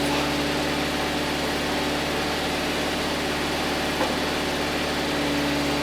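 An engine idling steadily with an even hum, with a single light click about four seconds in.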